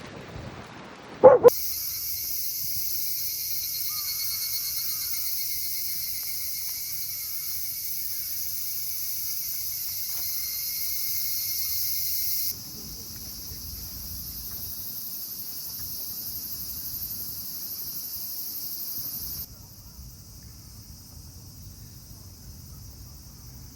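A brief loud sound about a second in, then a steady, dense high-pitched chorus of insects singing, dropping in level twice, as if at cuts.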